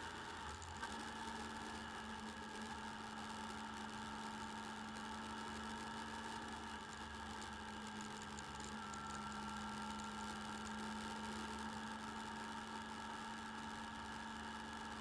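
Motorcycle engine running steadily, heard through the bike-mounted camera's microphone; its note settles to an even hum about a second in.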